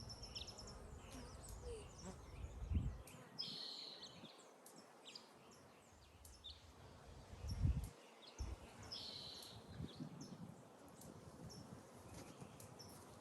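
Birds chirping in short high calls, with two brief rasping notes, over faint outdoor background noise. Two short low rumbles, about three and eight seconds in, are the loudest sounds.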